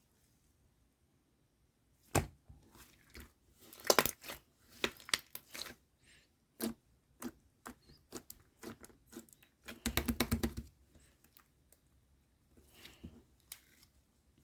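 Slime with pearl beads in it being pressed and squished by hand, giving scattered sharp clicks and crackles from about two seconds in, with a dense run of rapid clicking about ten seconds in.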